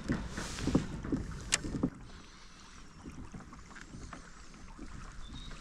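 Kayak moving on the water: a quick run of knocks and splashes against the hull with one sharp click, then quieter water noise after about two seconds.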